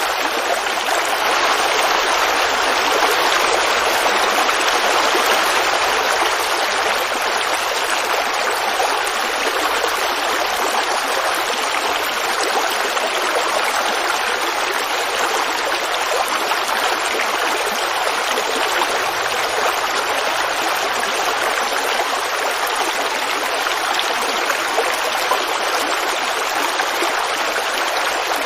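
Forest creek babbling and rushing over rocks, a steady, even flow of water.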